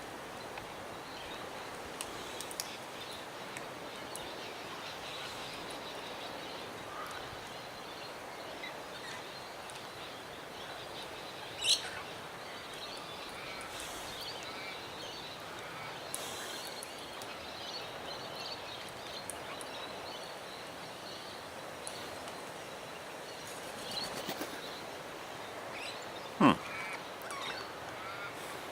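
Small birds chirping from the trees over steady outdoor background noise. There are two short loud sounds: a high-pitched one about twelve seconds in and a sharp one near the end.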